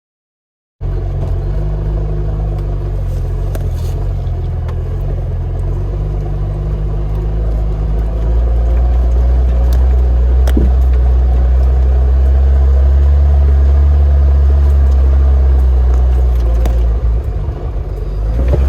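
Lada Niva engine running while driving, a steady low drone that cuts in suddenly about a second in, grows louder around eight seconds in and eases off briefly near the end.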